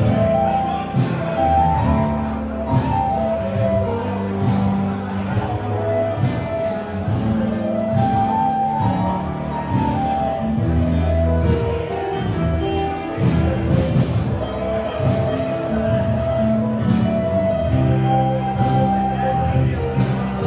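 Live band music: drums keeping a steady beat under held pitched notes and a full bass line.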